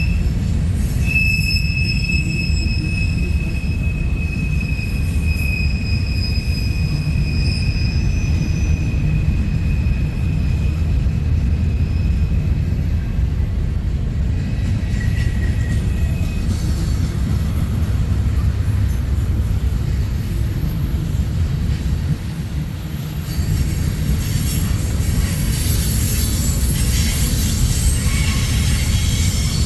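Freight train rolling past: a steady heavy rumble of the cars on the rails, with a thin high-pitched wheel squeal held from about a second in until roughly halfway, and more high squealing near the end.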